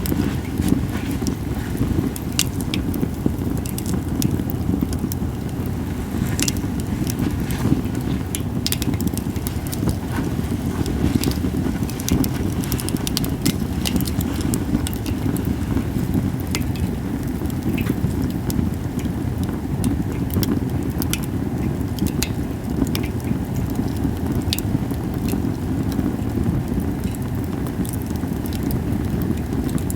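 Japanese cedar (sugi) wood fire crackling, with frequent sharp pops and snaps scattered irregularly, over a steady low rumble.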